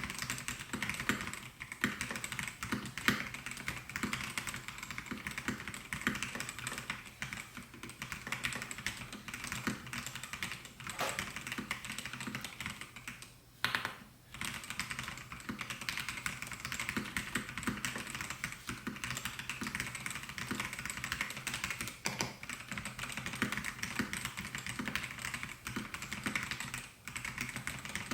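Melgeek Mojo68 mechanical keyboard with white Pro switches being typed on fast and continuously, a steady stream of key clicks and clacks. There is a short pause about halfway through.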